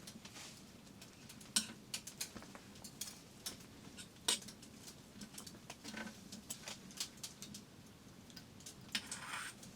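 Irregular light clicks and taps of small hard objects, a few sharper ones standing out, with a short rustle near the end.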